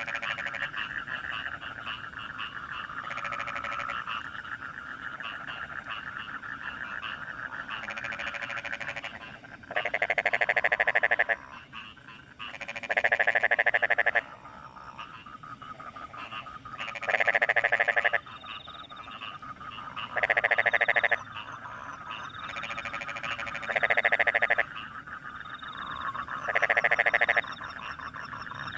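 Rice-paddy frogs croaking in a dense, continuous chorus after rain. From about a third of the way in, one louder frog joins with rapid pulsed croaks, each call lasting about a second and coming roughly every three seconds.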